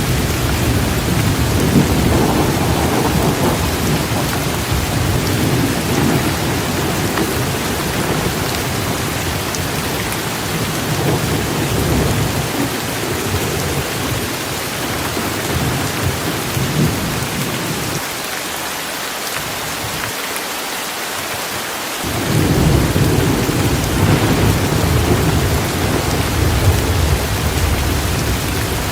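Heavy rain pouring down steadily, with low rolling thunder rumbling under it. The thunder fades away for a few seconds past the middle, then swells back in about three quarters of the way through.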